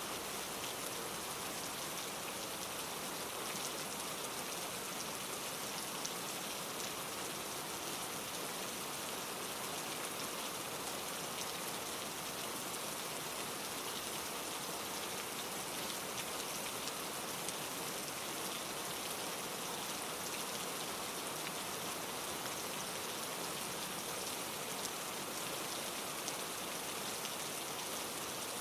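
Steady rain falling: an even hiss of many drops, with a few slightly sharper single drops now and then.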